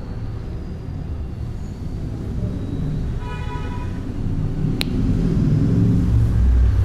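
A short beep from the rain-alarm oscillator circuit's buzzer about three seconds in, lasting under a second, followed by a sharp click. Under it runs a steady low rumble that grows louder near the end.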